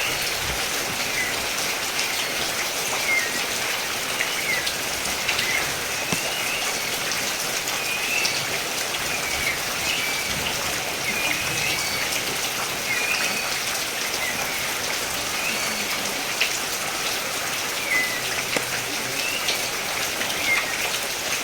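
Steady rain falling, with scattered drops ticking on surfaces. Over it, a bird gives short high chirps, repeating about once a second.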